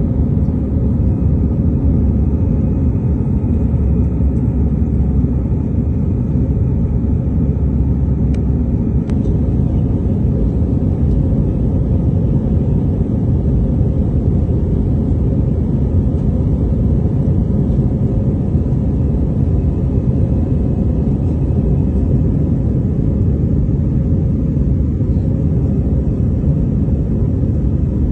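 Steady, even low rumble of an airliner's cabin: engine and air noise heard from a window seat.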